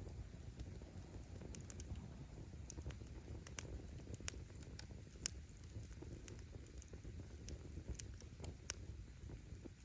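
Wood fire crackling: burning firewood pops and snaps in irregular sharp clicks over the low, steady rush of the flames.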